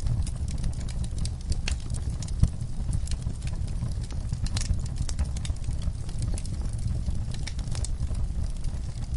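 Log fire burning, with a steady low rumble of flame under frequent sharp crackles and pops from the wood. One louder pop comes about two and a half seconds in.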